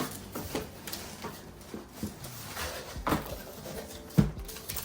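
Cardboard box and packaging being handled during unboxing: scattered rustles and light knocks, with a louder thump about four seconds in.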